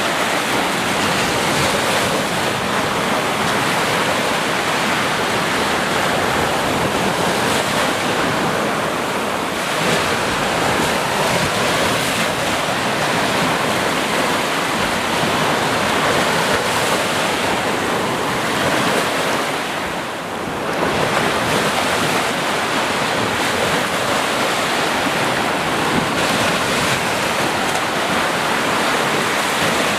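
Sea surf: waves washing and breaking on the shore in a continuous rush, with a brief lull about two-thirds of the way through before the next wave comes in.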